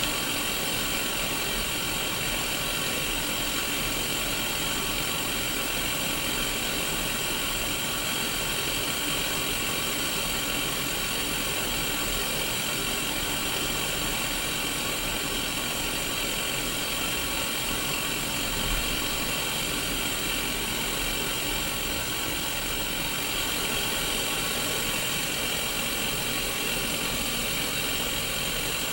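Sony Mega Watchman black-and-white CRT TV tuned to no station, its small speaker playing a steady hiss of white-noise static with a faint low hum beneath it.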